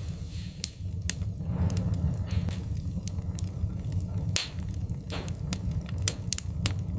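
Wood fire crackling in a fireplace: irregular sharp pops and snaps from the burning logs, with a few short hisses, over a steady low rumble of the flames.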